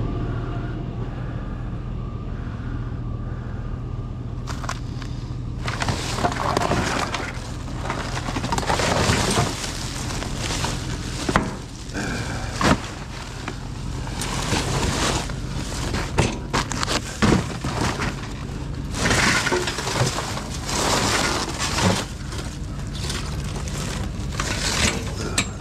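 Crunching and scraping of snow and ice in irregular strokes, starting about six seconds in, over a steady low hum.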